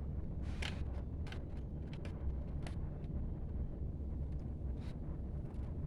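Lego bricks being handled: a few short, light plastic clicks, scattered and irregular, over a steady low rumble.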